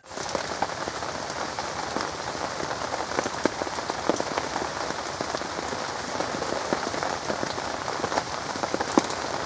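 Continuous rain falling steadily, a dense hiss with many sharp individual drop hits.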